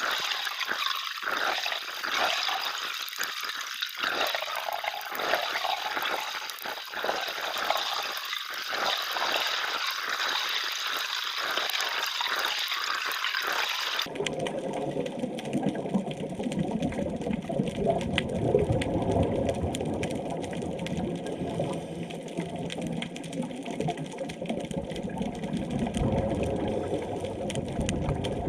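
Underwater ambience on a coral reef: a steady high hiss with crackle, which switches abruptly about halfway through to a lower, fuller wash of moving water.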